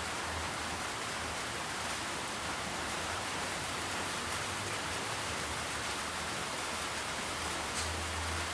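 A steady, even hiss with no distinct events, and a low rumble that comes and goes, louder near the end.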